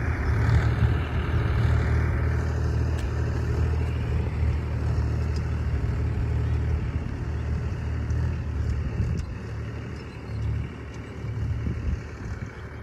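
Tractor engine running steadily under load while ploughing a field, a low drone that grows fainter and uneven over the last few seconds.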